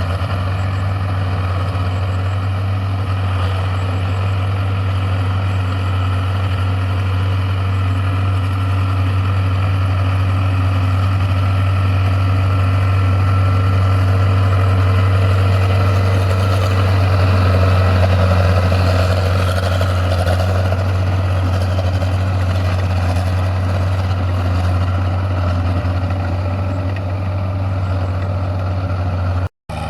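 Heavy diesel engine of a home-built paddy tractor running steadily with a deep, continuous hum, swelling slightly in the middle, then cut off for a moment just before the end.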